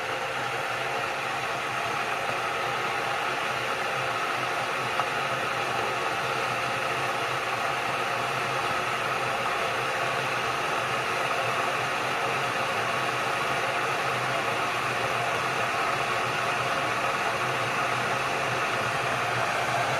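Ikich CP188A stainless-steel and glass electric kettle heating a small amount of cold water: a steady rushing hiss with a low hum beneath it, slowly growing louder as the water heats.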